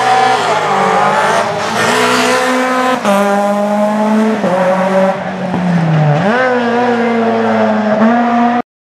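Rally car engine running hard at high revs, its pitch dipping and climbing again several times. The sound cuts off abruptly near the end.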